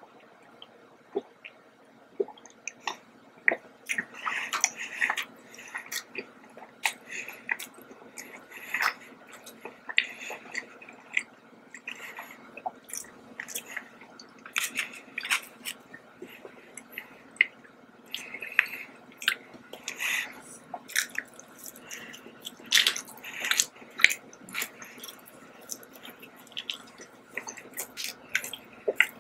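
Close-miked chewing of soft donuts: irregular wet mouth clicks and smacks, coming thick and fast.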